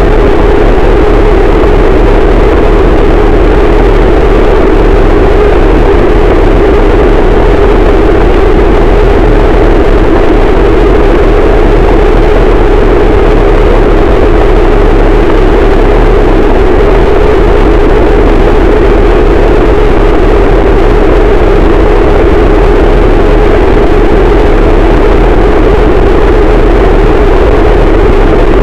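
Harsh noise wall: a loud, unbroken wall of distorted electronic noise that does not change, densest in a low-mid band.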